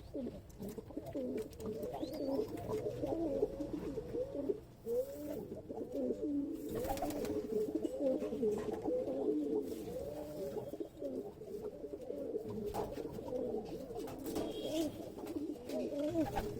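Several domestic pigeons cooing without pause, their low coos overlapping and rising and falling in pitch.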